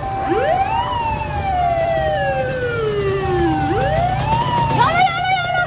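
Fire engine siren wailing: it rises quickly, then falls slowly over about three seconds, and does this twice, over a low engine rumble. A steady tone cuts in and out underneath, and a short, harsh warbling blast sounds about five seconds in.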